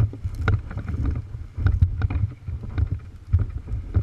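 Uneven low rumbling buffeting, like wind on the microphone, with scattered short knocks and clicks.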